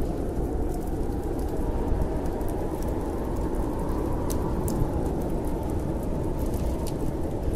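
Steady low rush of snowstorm wind, with scattered sharp crackles and pops of a burning wood fire.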